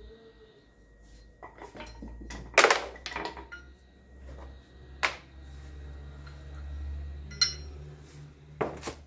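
Metal tools and parts clanking and clinking, with about five sharp knocks over a low rumble, the loudest a little over two seconds in.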